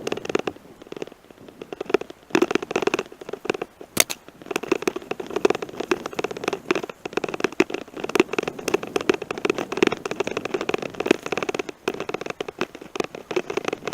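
Bicycle tyres crunching over a gravel forest road, with a dense, irregular crackle of stones and rattling that comes and goes in strength.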